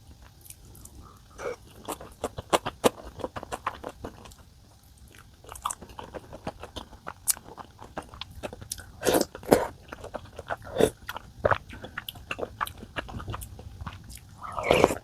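A person eating close to the microphone: irregular chewing and biting with many small clicks and crackles, and louder bites about nine seconds in and again near the end.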